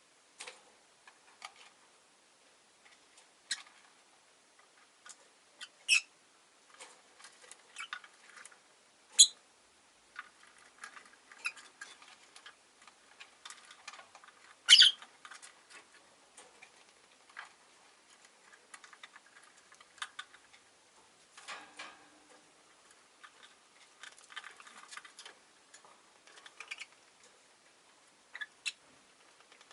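Rosy-faced lovebirds in a cage: scattered short chirps and a few sharp high squeaks, the loudest about fifteen seconds in, among frequent light clicks.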